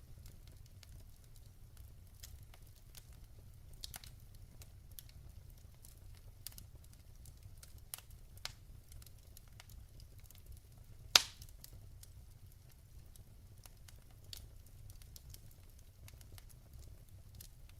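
Wood fire in a fireplace crackling softly over a low steady rumble, with scattered small pops and one loud sharp pop about eleven seconds in.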